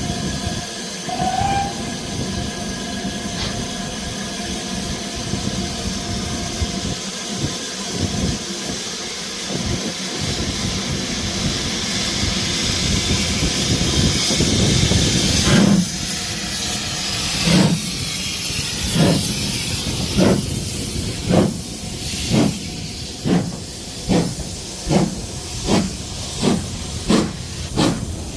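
Steam locomotive hissing steadily with escaping steam, then starting away about halfway through: its exhaust chuffs begin slow and get steadily quicker as it gathers speed.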